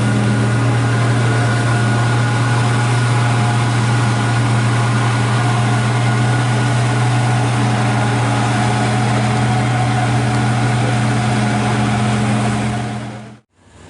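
Truck's engine running loud and steady at constant revs, fading out near the end.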